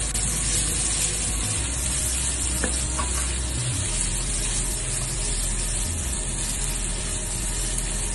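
Pancit guisado noodles and vegetables sizzling in a hot pan as they are stir-fried and tossed with a spatula, a steady frying hiss with a couple of faint clicks about three seconds in.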